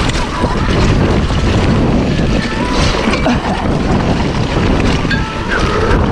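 Loud wind buffeting the microphone over a steady low rumble, with no clear engine note.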